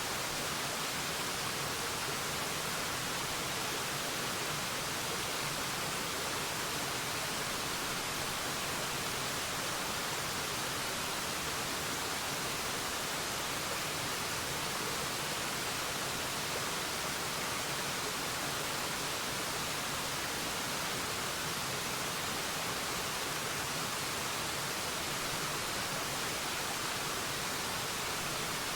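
Waterfall: a steady, hiss-like rush of falling water, even and unchanging.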